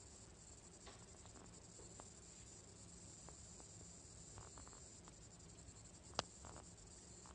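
Near silence with a faint, steady, high-pitched insect chirring, and one sharp click about six seconds in.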